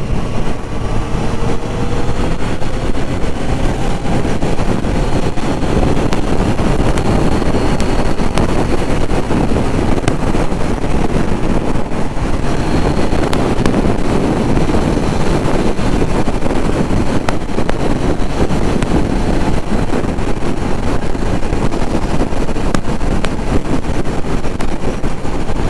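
Wind rushing over the microphone of a motorcycle at highway speed, with the bike's engine running underneath; in the first few seconds a faint engine note rises in pitch as it accelerates.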